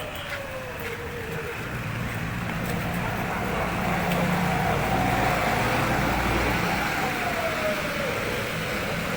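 A motor vehicle engine running under a steady rush of noise, its tone slowly falling, rising and falling again, a little louder midway.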